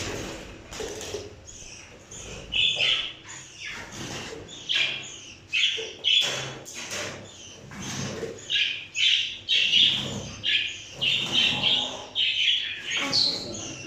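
A flock of caged parrots giving many short, harsh squawks and chirps one after another, more crowded together in the second half.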